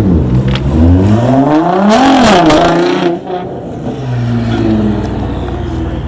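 A car engine being revved: the pitch climbs to a high rev about two seconds in, drops back quickly, then settles to a steadier lower running note.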